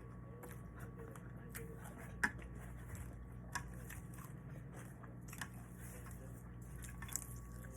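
A person chewing food close to the microphone, with a few sharp crunches, the loudest about two seconds in.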